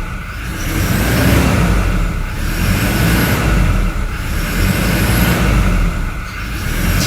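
Toyota 2GD-FTV 2.4-litre four-cylinder turbo diesel running, its turbo whistle rising and falling about every two seconds over the diesel rumble. The turbo is factory standard and has none of the droning hum from a loose turbo shaft that the uploader says plagued earlier Innova diesels.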